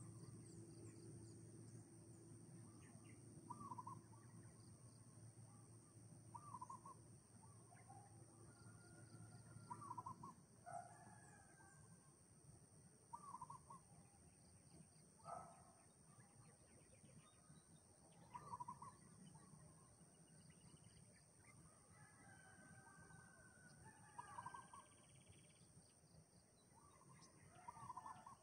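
Faint short bird calls, repeating every three seconds or so, over a steady high-pitched drone. A low hum underneath stops about ten seconds in.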